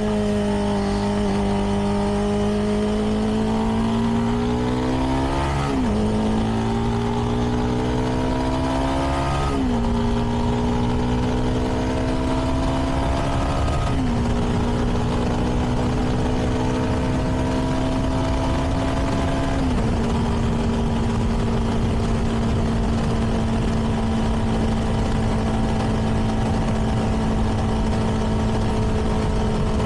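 CFMoto 300NK's single-cylinder engine through its stock exhaust, accelerating up through the gears. The pitch climbs and drops sharply at each of four upshifts, about 6, 10, 14 and 20 seconds in, then holds steady at cruising speed.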